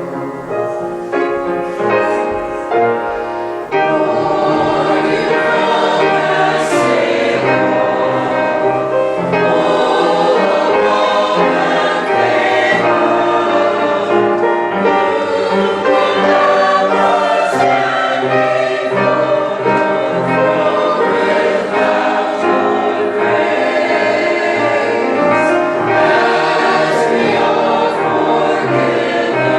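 Church choir singing a cantata piece with accompaniment, full and sustained, swelling about four seconds in.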